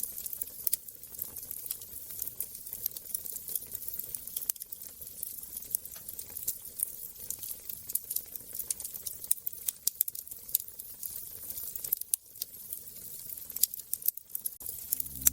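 Wood fire crackling in a fireplace: a steady run of small, irregular sharp pops and snaps over a soft hiss.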